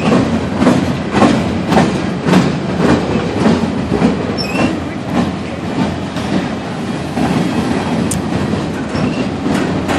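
Freight train of double-stack container well cars rolling past, a steady rumble with wheels clacking over the rail joints a little under twice a second; the clacks blur into the rumble in the second half.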